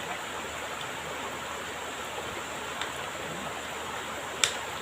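Steady rush of flowing river water, with a faint click a little past halfway and a sharp click near the end.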